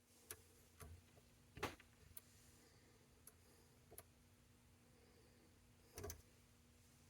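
Near silence broken by scattered faint clicks and taps of small hand tools and parts being handled on a workbench, the loudest about a second and a half in and again about six seconds in, over a faint steady hum.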